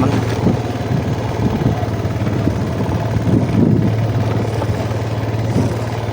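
Yamaha Jupiter MX motorcycle engine running steadily while being ridden, a constant low hum under even road and wind noise.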